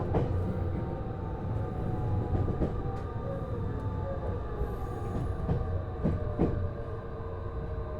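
Cabin running sound of a JR East HB-E210 series hybrid diesel-electric train underway: a steady rumble of the car on the rails with several steady humming tones from the drive system, and a few sharp clicks from the wheels.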